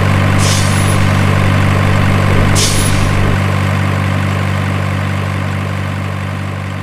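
Heavy truck engine idling, a steady low hum laid over as a sound effect, with two short hisses about half a second and two and a half seconds in. It fades slowly toward the end.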